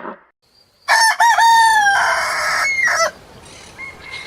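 Rooster crowing once: a choppy start, then a long held note lasting about two seconds.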